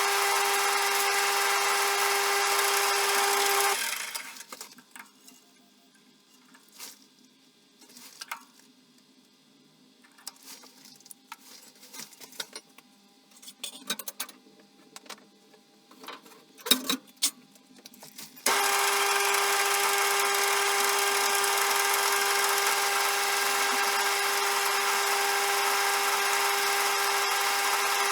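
CJM360 bench lathe running with a steady whine; it winds down about four seconds in. This leaves a quiet stretch of scattered clicks and knocks from handling tools and metal, the loudest knock near 17 seconds. The running whine then comes back suddenly at full strength about 18 seconds in.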